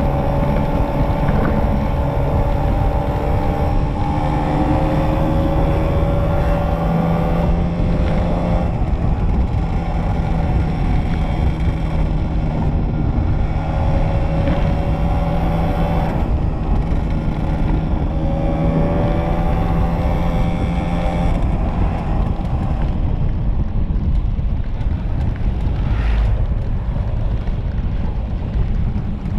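Two-stroke motorcycle engine under way, climbing in pitch through the gears and dropping back four times in the first twenty seconds, then easing to a steadier run. Steady wind noise on the microphone throughout.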